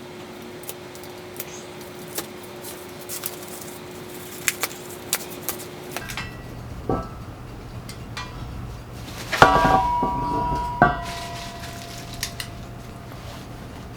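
Metal hardware from a tow-hitch kit (bolts, spacers, washers) clicking and clinking as it is handled. About two-thirds through come two louder metal clanks that ring on briefly.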